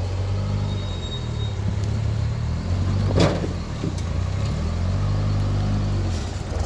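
Off-road 4x4's engine idling steadily, its pitch wandering a little, with one sharp knock about three seconds in.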